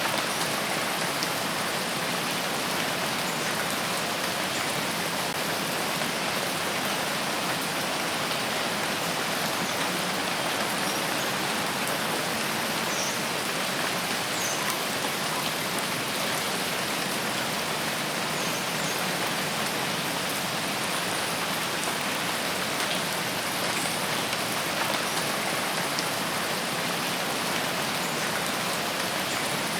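Steady rainfall on foliage in a rain forest: an even, unbroken hiss of falling rain, with a few faint high chirps now and then.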